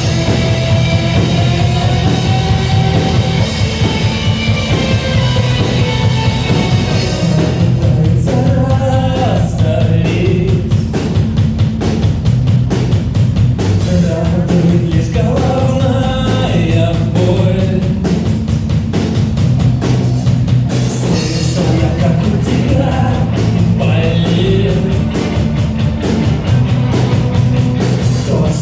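Rock band playing a song live, with a voice singing over it. Sustained chords at first, then the drum kit comes in about seven seconds in and the full band plays on.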